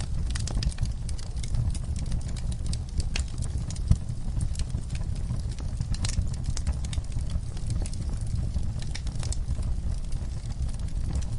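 Wood fire crackling, with frequent sharp pops and snaps over a steady low rumble of flames. One louder snap comes about four seconds in.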